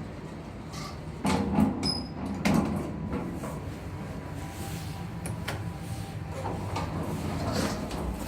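OTIS elevator giving two sharp bangs about a second apart, a little over a second in, with a brief high beep between them, over steady elevator machinery and door noise. The bang is the elevator's abnormal noise.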